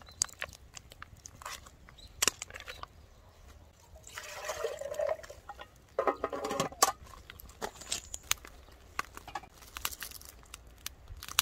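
Camp-cooking handling sounds: scattered clicks and knocks of utensils, cookware and packaging, with a brief pour of liquid about four seconds in and a short clatter of metal cookware soon after.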